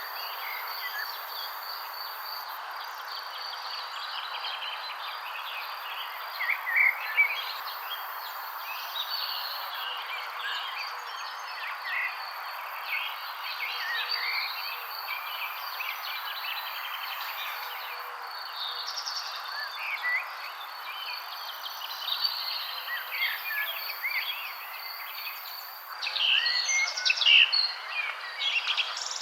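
Many songbirds chirping in scattered short calls over a steady background hiss and a steady high-pitched trill. The chirping grows denser and louder near the end.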